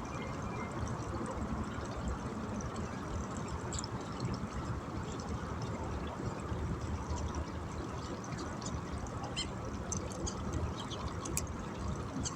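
Steady rushing outdoor noise, strongest at the low end, with a few faint scattered clicks.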